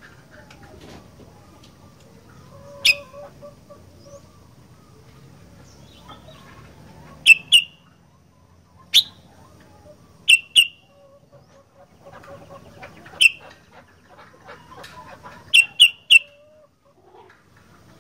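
Sooty-headed bulbul calling: loud, sharp, very short notes, single, in pairs or in a quick run of three, with softer twittering between them.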